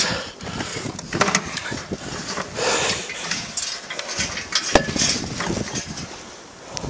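Blizzard wind blowing over the microphone, with scattered clicks and knocks and one sharp knock a little before five seconds in.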